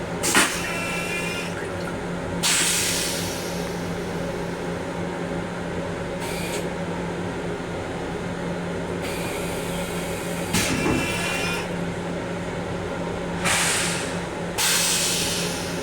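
Restroom fixtures in an M7 rail car giving a series of short hissing rushes, about seven in all and each a second or two long, some with a faint whistling tone, over the car's steady low hum. A sharp click comes right at the start.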